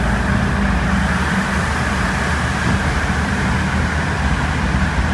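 Steady road noise of a motor vehicle driving, with a deep, even rumble.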